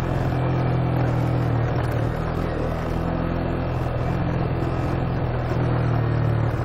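Motorcycle engine running steadily at low, even revs while riding slowly over a broken road.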